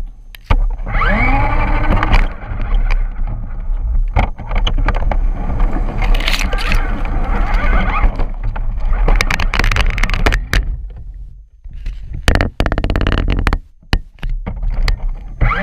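Remote-control truck driving, heard from a camera mounted on it. The motor's whine rises and falls as it speeds up and slows down several times, over a constant rumble and rattling from the chassis and ground. There is a brief lull about eleven seconds in.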